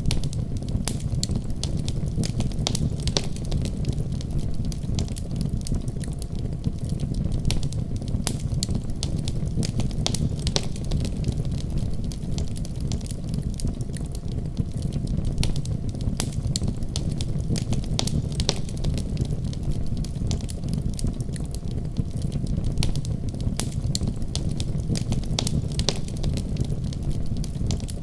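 Wood fire crackling and popping irregularly over a steady low rumble of flames.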